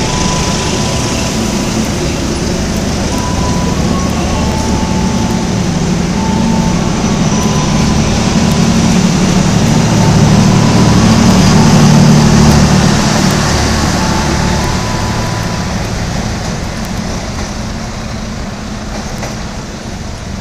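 Argo Jati passenger coaches rolling past on the rails with a steady wheel rumble. It builds to its loudest about halfway through and fades as the last coach goes by.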